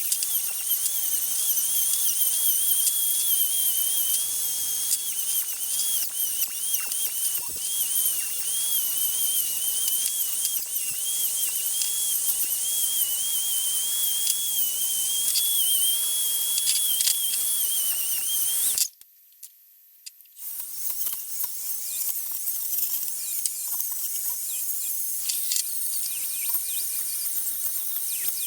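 Dremel rotary tool running at high speed with a brass wire cleaning wheel brushing the metal of an old monkey wrench: a steady high whine with hiss, wavering slightly as the wheel is pressed to the work. It cuts out for a second or two about two-thirds of the way in, then runs again with a rougher, hissier sound and no clear whine.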